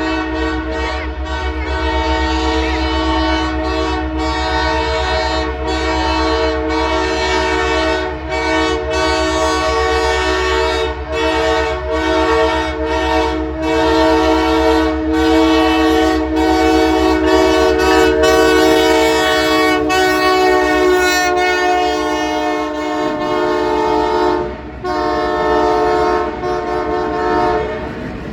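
Diesel locomotive horn of the CP Holiday Train sounding a loud, steady chord, held almost without a break, with a short dip near the end. Under it runs the low rumble of the train passing.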